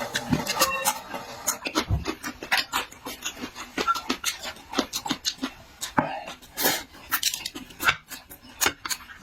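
A person chewing and smacking food close to the microphone: a quick, irregular run of wet mouth clicks.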